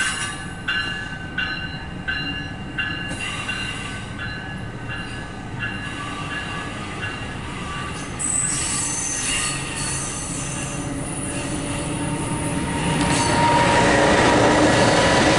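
MARC commuter train departing: a bell rings with steady, regular strikes for the first several seconds, then the train's rolling and wheel noise builds and grows clearly louder near the end.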